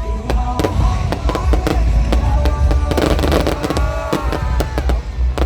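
Fireworks display: a dense, rapid run of sharp bangs and crackling bursts over a constant deep rumble.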